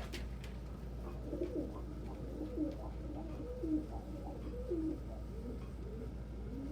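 Pigeons cooing, a run of low, rolling coos that starts about a second in and keeps going, the calls overlapping.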